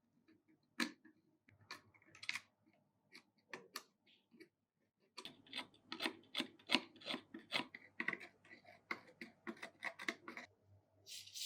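Quick light clicks and taps of small metal parts of an old pistol being handled, scattered at first, then a dense rapid run from about five seconds in. A short hiss follows near the end.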